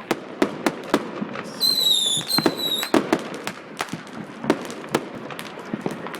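Fireworks going off: a rapid, irregular crackle of sharp bangs, with a high whistle about a second and a half in that lasts just over a second.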